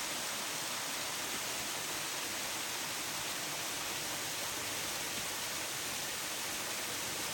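Steady rushing of flowing water: an even hiss with no breaks or pitch.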